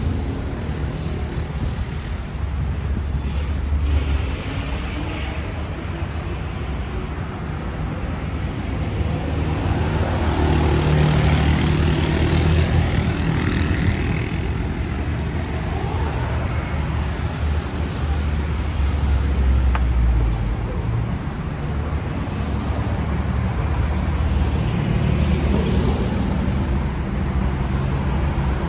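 City street traffic: cars driving past with a continuous rumble of engines and tyres. It swells louder twice, about ten and eighteen seconds in, as nearer vehicles pass.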